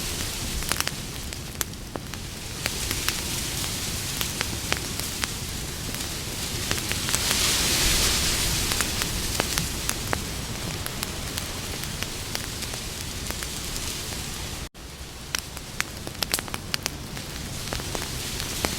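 Campfire burning: a steady hiss of flames with many sharp crackles and pops scattered through it, the hiss swelling for a couple of seconds midway. A split-second dropout in the sound about three-quarters of the way through.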